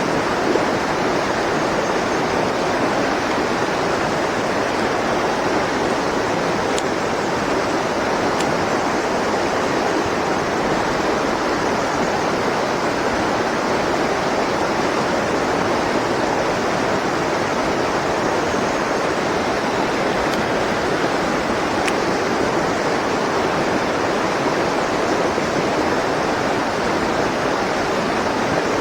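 Mountain stream rushing steadily, running high after heavy rain.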